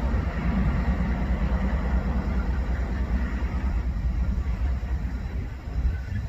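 Low, steady rumble of a freight train rolling past.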